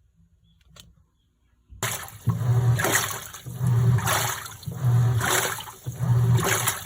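Washing machine churning water in its wash cycle, sloshing in regular surges about once every second. It starts about two seconds in, after near silence and a faint click.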